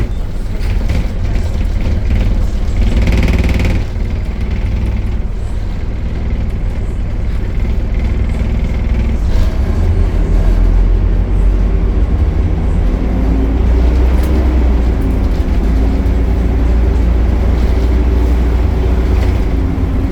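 Optare Solo bus engine running with a heavy, steady low rumble. A brief higher-pitched ringing sound comes about three seconds in. In the second half a drivetrain tone rises and falls as the bus works through the Allison automatic gearbox.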